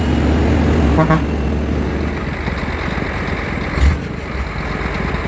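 Truck engine running steadily with a deep rumble, and a single thump just before four seconds in.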